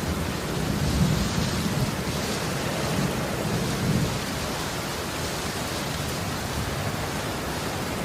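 Steady heavy rain with low rolls of thunder swelling and fading about a second in and again around four seconds in.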